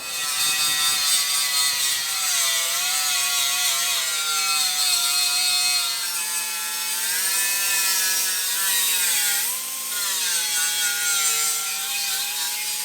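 Electric grinder working sheet metal, a steady whine over a hiss. Its pitch sags and recovers as it is pressed against the metal, and it winds down with a falling whine at the end.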